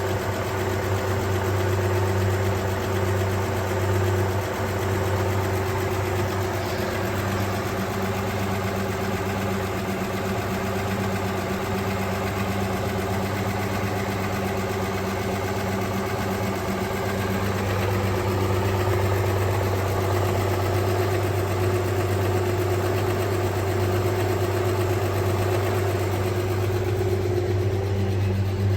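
1974 Holden LH SLR Torana engine idling steadily.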